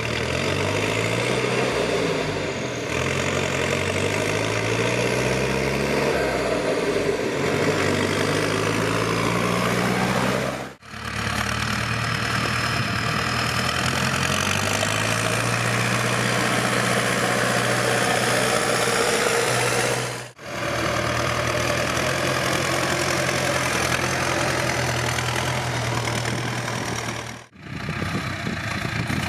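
Ursus C-385 tractor's four-cylinder diesel engine running, its pitch rising and falling with engine speed for the first ten seconds or so, then holding steadier. The sound breaks off briefly three times.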